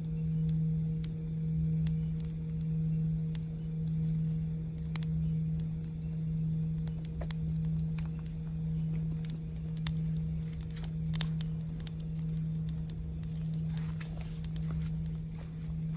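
Singing bowl ringing on a low sustained tone that swells and fades in a slow, even wavering, over a campfire crackling with scattered sharp pops.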